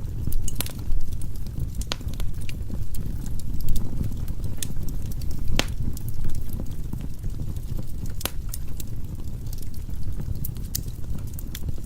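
Firewood burning in a fireplace: a steady low rumble of the flames with irregular sharp crackles and pops from the logs, a few louder snaps standing out.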